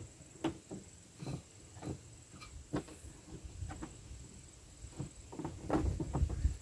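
Scattered small clicks and knocks of plastic cab trim parts and trim screws being handled and pushed into place, with heavier thumps and handling rumble near the end.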